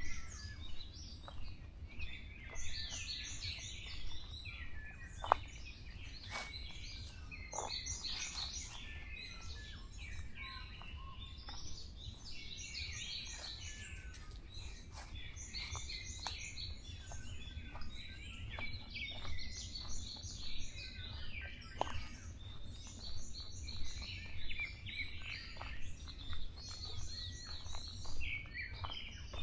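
Forest birdsong: several songbirds calling, one repeating a short, high phrase about every two seconds, over a steady low rumble, with a sharp click about five seconds in.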